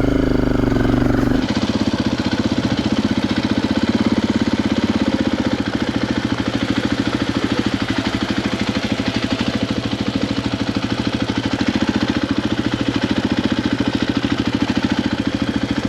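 KTM 500 EXC dirt bike's single-cylinder four-stroke engine running steadily with a rapid, even firing beat; a second engine tone drops away about a second and a half in.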